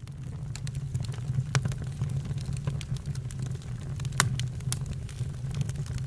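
Campfire burning, crackling with scattered sharp pops over a steady low rumble. The loudest pops come about one and a half and four seconds in.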